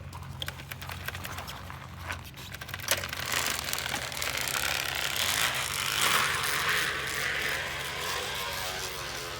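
Flattened plastic water bottle wedged against a bicycle's spokes, flapping against them as the wheel turns. It starts as rapid clicking, then from about three seconds in becomes a denser clattering buzz that builds as the bike speeds up and eases off toward the end.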